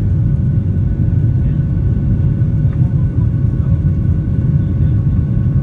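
Cabin noise of a Boeing 737-800: a loud, steady low rumble from its CFM56-7B engines and the airflow, with faint steady whine tones above it.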